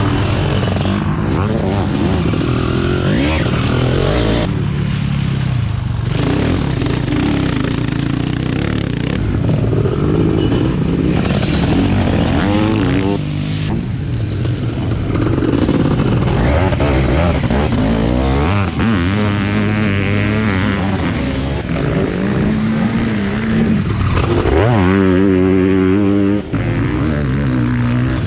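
700cc two-stroke Zabel sidecarcross engines running hard at racing speed, pitch rising and falling as the throttle is opened and closed, in several short takes cut one after another.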